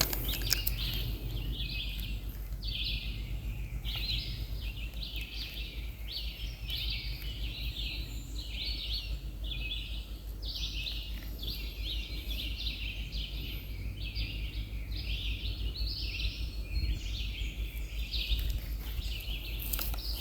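A steady train of high, buzzy animal calls, about two a second, over a low steady rumble.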